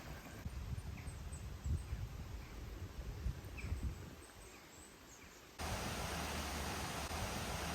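Outdoor ambience: uneven low rumbling with a few faint bird chirps. About five and a half seconds in it cuts abruptly to a steady hiss.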